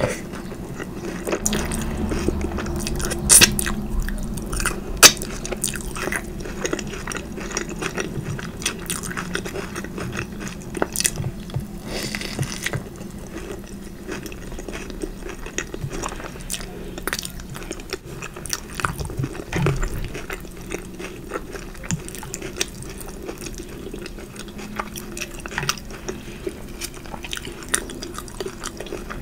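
Close-miked eating: wet chewing and mouth smacks with many short crunchy clicks, the loudest about three and five seconds in.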